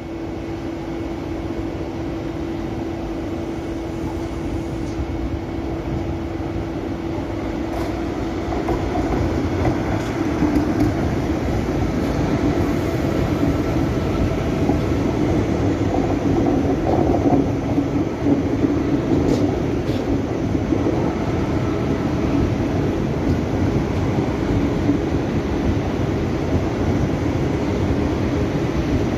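Deutsche Bahn ICE electric train passing close by: a continuous rolling rumble of wheels on rails with a steady low hum. It grows louder about ten seconds in as the coaches come alongside.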